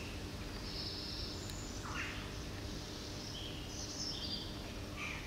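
A few short bird chirps and calls over steady outdoor background noise, with one brief falling call about two seconds in.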